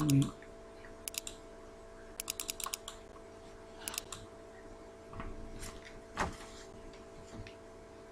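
Computer keyboard typing in short, separate bursts of a few keystrokes, with a rapid run of about five keys partway through and a single louder knock about six seconds in, over a faint steady hum.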